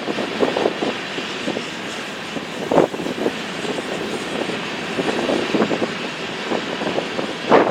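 Train cars rolling past, a steady rumble with irregular clacks of wheels over the rails that get louder near the end, with wind on the microphone.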